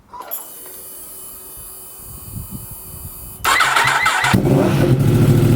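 2015 Yamaha R1's crossplane inline-four starting through a newly fitted Akrapovic slip-on exhaust on a decat link pipe. A faint steady whine comes first, the starter cranks about three and a half seconds in, and the engine catches within a second and settles into a loud, steady idle.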